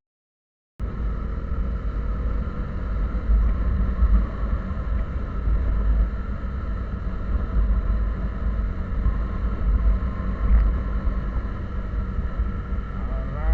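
Steady low rumble of a moving vehicle's engine and road noise while driving. The sound cuts out completely for just under a second at the start.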